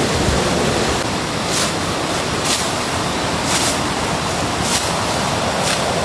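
Rushing mountain river, a steady loud wash of water noise, with footsteps scuffing on the trail about once a second.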